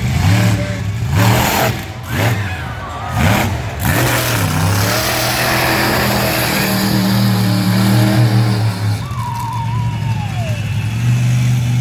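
Monster truck engine revving hard, climbing and dropping several times in the first few seconds. It then holds high, fairly steady revs for several seconds before easing off near the end. A brief falling whine sounds about nine seconds in.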